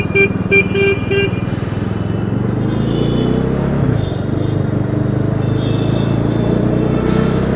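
A vehicle horn gives a quick string of about five short toots in the first second or so. Under it, a Bajaj Dominar 400's single-cylinder engine keeps running in traffic, its revs rising and easing off slightly.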